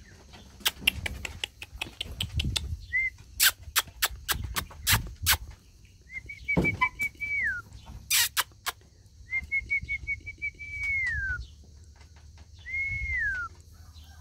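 A bird's whistled call, given three times: a quick run of short notes and then a falling whistle. Before it come a string of sharp clicks and taps.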